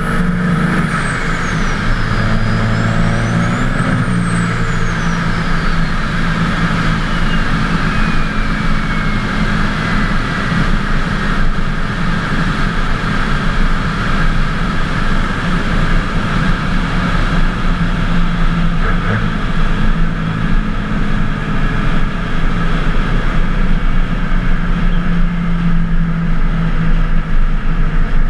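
Twin-turbocharged 24-valve Cummins inline-six diesel running steadily while driving. A high turbo whistle rises and falls twice in the first few seconds, then winds down in pitch over several seconds.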